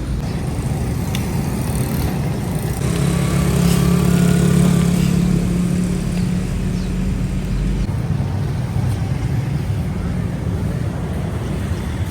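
Steady street traffic noise, with a motor vehicle's engine passing close, loudest from about three to six seconds in.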